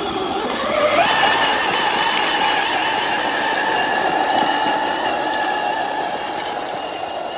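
RC truck's electric motor and drivetrain whining at full throttle while pulling a weighted sled. The pitch rises over the first second, then holds steady under the load, sagging slightly near the end.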